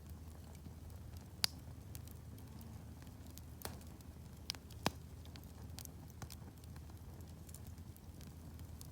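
Wood campfire crackling, with a few sharp pops, the loudest about a second and a half in, over a low steady rumble.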